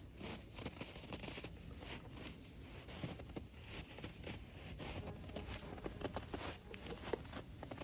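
Boots crunching through snow while walking, a steady run of short, irregular crackly crunches over a low rumble of wind on the microphone.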